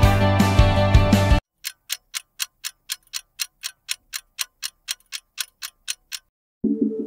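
Rock background music cuts off suddenly, then a clock-like ticking at an even pace of about four ticks a second runs for some four and a half seconds before new music starts near the end.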